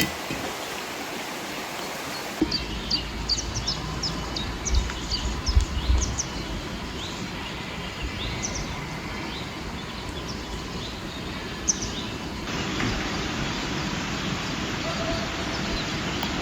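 Small birds chirping in quick, repeated short calls over a steady outdoor hiss. The background changes abruptly twice, and the chirps fall away after the second change.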